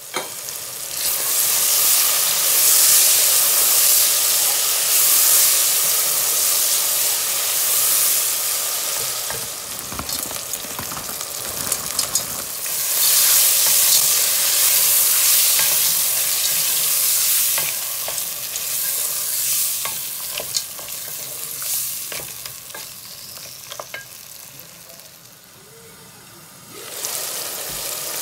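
Green peas and tomato-onion masala sizzling in hot oil in a cooking pot as they are stirred. The sizzle swells and fades in long stretches, with scattered knocks of a wooden spoon against the pot. It dies down for a while near the end, then comes back loud.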